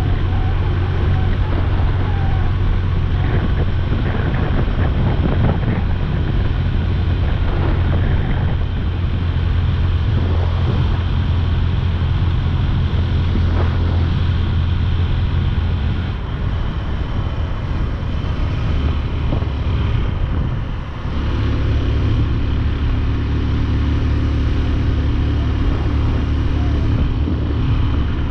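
Motorcycle engine running at road speed, with wind noise on the microphone. The engine note drops away briefly about two-thirds of the way through, then picks up again.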